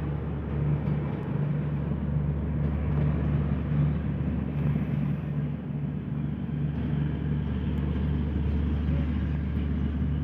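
Bangladesh Railway's Silk City Express, a diesel-hauled train, running steadily along the track as it pulls away from the station.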